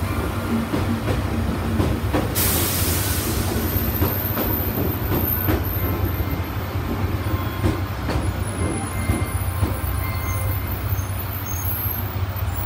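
JR Shikoku 8000 series electric train rolling slowly past along the platform as it arrives: a steady low rumble with irregular clicks of wheels over the rail. There is a brief hiss about two seconds in, and faint high-pitched wheel or brake squeals from about six seconds on.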